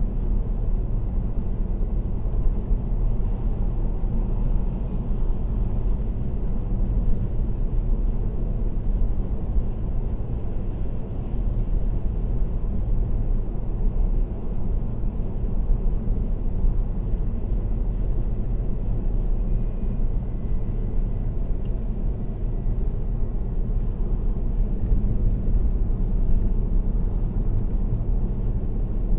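Steady road and tyre noise of a car cruising on an expressway: an even low rumble that holds at one level throughout.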